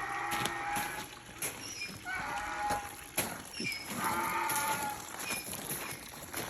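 Farm animals calling: three long, drawn-out calls, a second or two apart.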